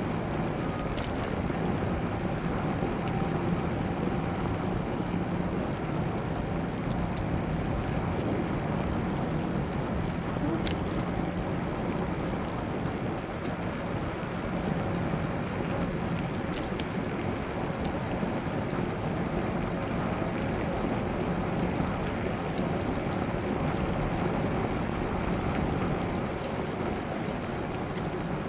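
Steady rush of wind on the microphone and rolling noise from an e-bike riding across a bridge deck, with a few faint ticks.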